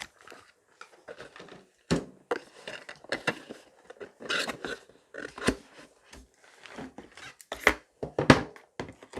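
Handling noise from filament spools and their packaging: irregular knocks and clacks with short bursts of rustling plastic.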